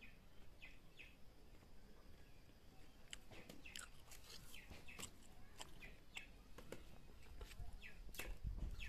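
Small birds chirping faintly, short falling chirps scattered throughout.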